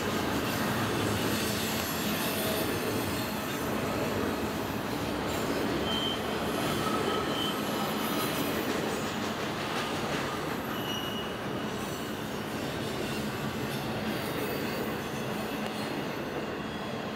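Double-stack container train rolling past, its well cars making a steady rumble and rattle on the rails. A few short high-pitched wheel squeals come through about six to seven seconds in and again around eleven seconds.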